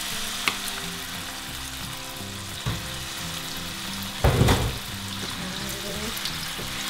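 Seafood pancake batter sizzling as it fries in hot oil in a frying pan, with a few light clinks of a metal ladle and a louder clatter about four seconds in.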